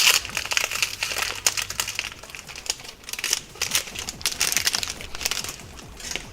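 Foil wrapper of a Pokémon trading-card booster pack crinkling and crackling as it is opened by hand, for about five and a half seconds.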